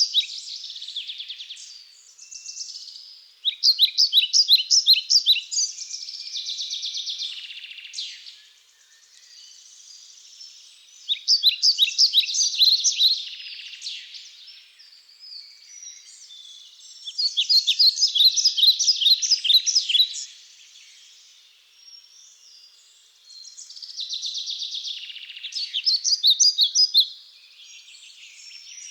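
Songbird singing: a phrase of quick, high, sharp notes about two to three seconds long, repeated every six or seven seconds, with softer chirping in between.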